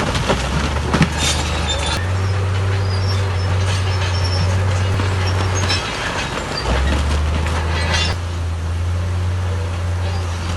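Diesel engine of heavy earthmoving machinery running under load, its low drone shifting pitch several times, with scattered metallic clanks and rattles.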